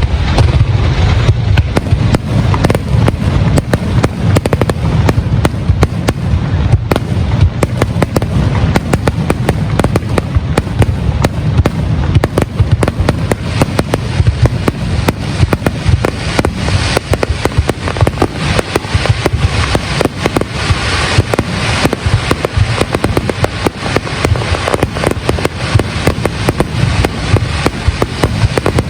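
A large fireworks display: a dense, continuous barrage of bangs and crackling over deep booming, with a brighter burst of crackle past the middle.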